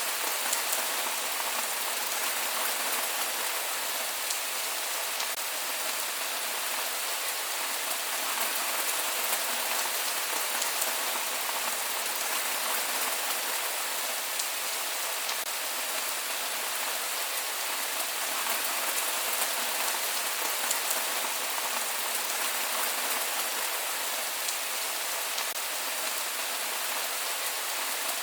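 Steady rain falling and pattering on surfaces, with no thunder.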